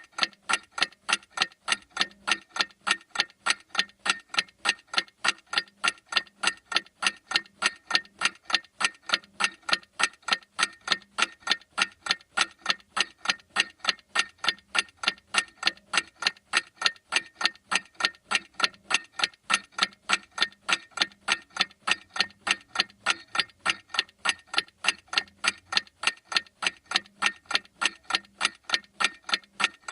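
A clock ticking steadily, with sharp, evenly spaced ticks.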